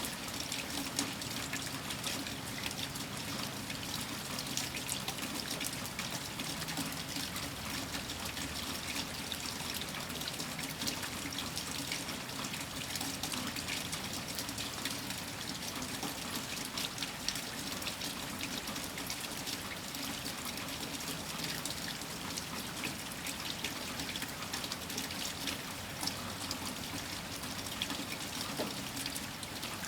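Steady rain falling during a heavy winter storm: a constant hiss made of many small drop hits, with no break or change.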